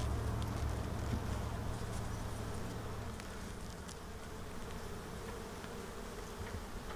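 Honeybees buzzing steadily around an open hive during a frame inspection, with a few faint clicks. The low buzz is strongest for the first few seconds and eases a little after about three seconds.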